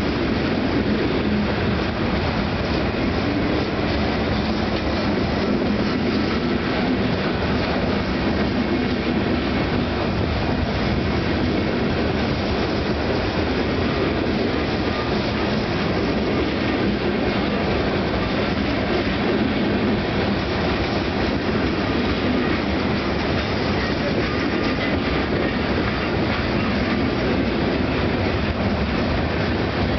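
Freight train of open-top hopper and gondola cars loaded with stone rolling steadily past, its steel wheels running on the rails.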